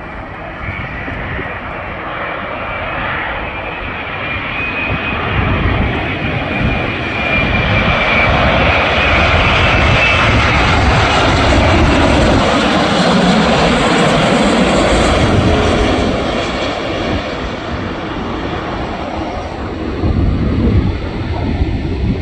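Boeing 787-9's Rolls-Royce Trent 1000 engines as the jet comes in to land: a high engine whine over a rushing roar that swells to its loudest about halfway through, then fades as the airliner passes.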